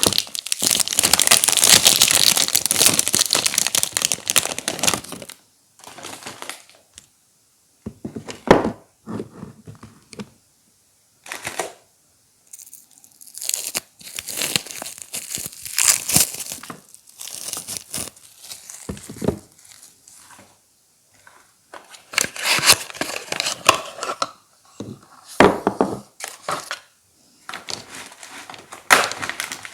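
Soap packaging being torn open and crinkled by hand. A dense, unbroken stretch of tearing and crinkling fills the first five seconds, then it comes in short bursts with quiet gaps between.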